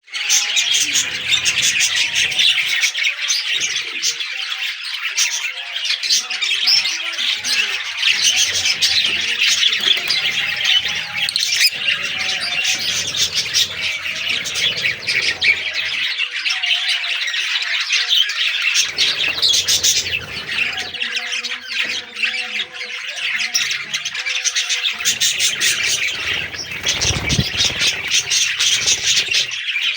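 A flock of budgerigars chattering and squawking together, a dense and continuous mass of warbles and chirps.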